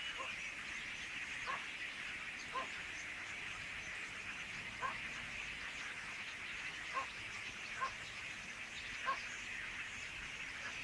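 Massed chatter of a large flock of common starlings, a steady high wash of calls. A short, lower call cuts through it about every one to two seconds.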